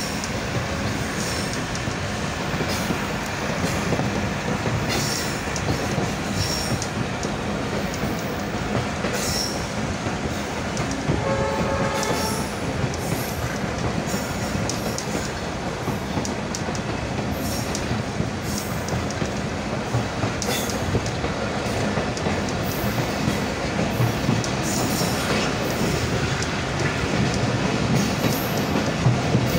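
Mohen Jo Daro Express passenger train running at speed, heard from inside a carriage: a steady rumble of wheels on track with irregular clicks over the rails. A brief pitched tone sounds about eleven seconds in.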